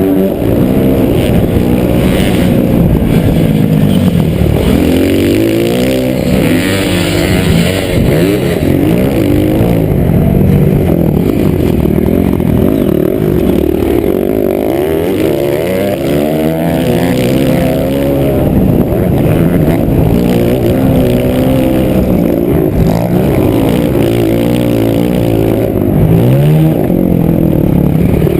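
Motocross bike engine, loud, revving up and dropping back again and again as it is ridden around the track.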